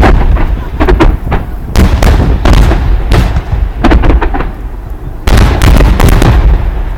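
Large aerial fireworks going off in a rapid barrage: loud, sharp booms of shell launches and bursts one after another, each followed by rumbling, with a dense cluster about five seconds in.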